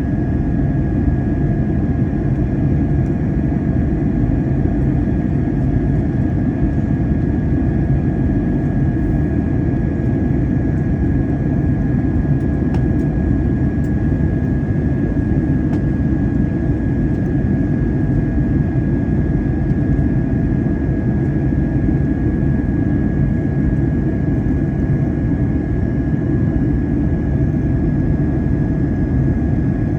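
Airbus A321 airliner cabin noise: the steady, even roar of the jet engines and airflow, with a thin steady high whine over it.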